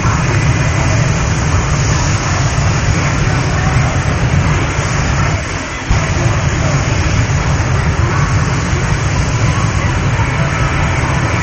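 Jet engine of a jet-powered van running at high power, a loud steady rushing noise that dips briefly about halfway through.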